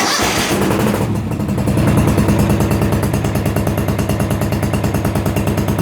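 Small lawn-equipment petrol engine coming in suddenly and running steadily with a rapid, even pulse, getting a little louder about two seconds in.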